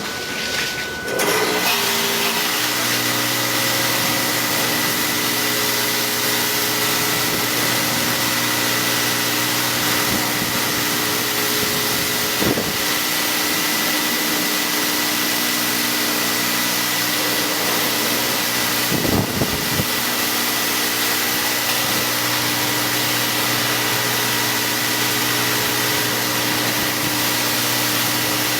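Car wash machinery switching on and running steadily: an even motor hum under a loud rushing noise. It starts and builds in the first two seconds, then holds level, with two brief low bumps partway through.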